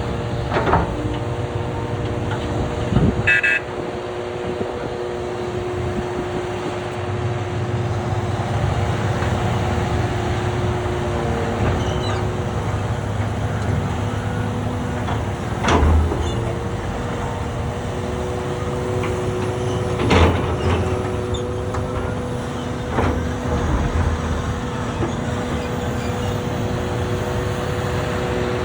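Heavy diesel engines of Caterpillar 745C articulated haul trucks and their loader running steadily, with about five heavy thumps spread through as loads of material are dropped into a truck bed. A short beep sounds about three seconds in.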